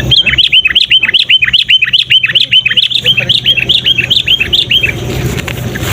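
Sooty-headed bulbul (kutilang) calling in a fast, insistent chatter of short downward-slurred notes, about six a second, that stops about five seconds in. A steady low hum lies underneath.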